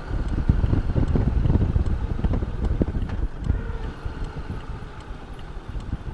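Wind buffeting the microphone of a Honda Goldwing motorcycle on the move, a gusty low rumble with the bike running underneath; the buffeting eases somewhat in the second half.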